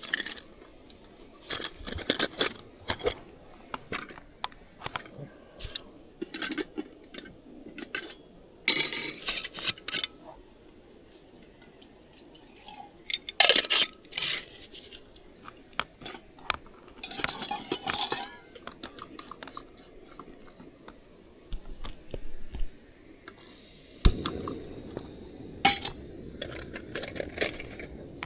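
Camp cookware and utensils being handled: irregular clinks and clatters of metal and dishes, in short bursts with pauses between.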